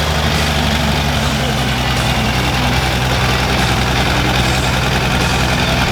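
Monster truck's turbo-diesel engine running steadily at low revs, a constant heavy drone.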